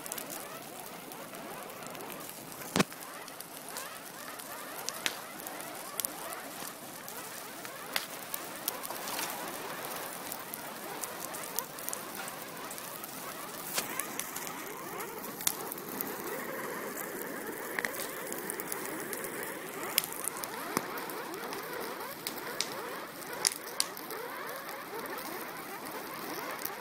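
A fire burning with a steady hiss and crackle, broken by sharp pops every few seconds, the loudest about three seconds in.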